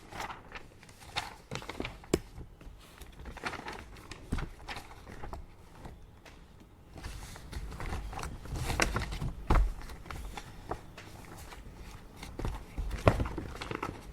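Paper being handled at an office desk: irregular rustling with scattered clicks and knocks, busiest about two-thirds of the way through and again near the end.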